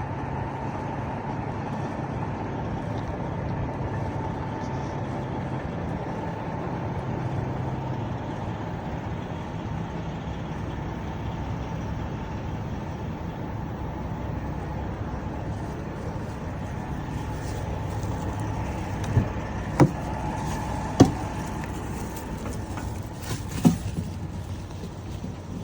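A truck running, with a steady engine hum and road noise. Near the end come about five sharp knocks or clicks, louder than the running noise.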